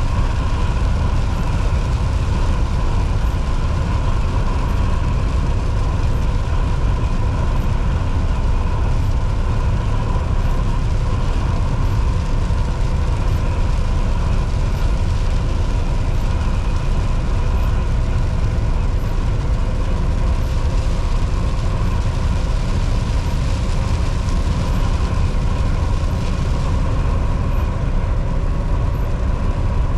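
A Volvo VNL 760 semi truck drives steadily, its diesel engine and tyre and road noise making a constant deep rumble with a steady whine over it. About two-thirds of the way in, a hiss swells for several seconds and then fades.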